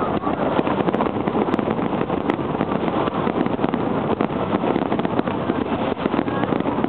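A dense barrage of aerial firework shells bursting in quick succession, the bangs and crackle running together into a continuous rumble with no pause.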